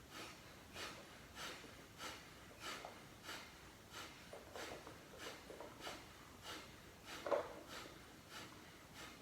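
Kapalbhati pranayama breathing: short, forceful exhalations through the nose, each pushed out by a stroke of the stomach muscles, in a steady rhythm of about three every two seconds. One stroke about seven seconds in is louder.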